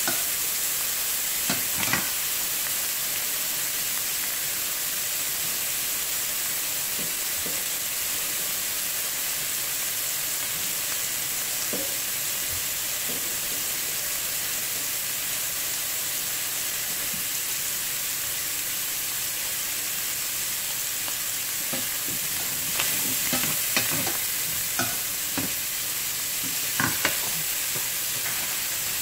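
Diced ham sizzling steadily as it browns in a stainless steel pan. Metal tongs click and scrape against the pan as the pieces are turned: a few times near the start, once in the middle, and several times in the last seconds.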